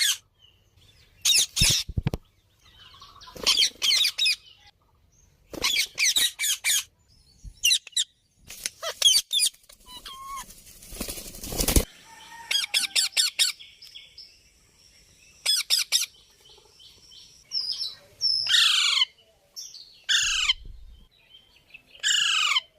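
Pet parrot calling in short bursts every second or two, each a quick run of harsh, high notes, with several falling screeches near the end. There is a rustling flurry about ten to twelve seconds in.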